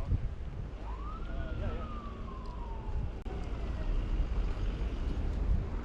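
A distant siren wails once, rising quickly to a peak about a second in and then falling slowly away, over a steady low rumble of wind and traffic.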